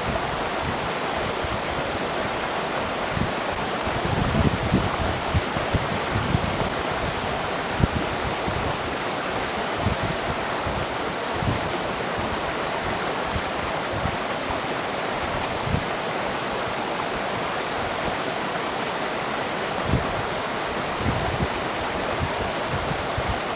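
Forest stream flowing steadily, with scattered short low thumps.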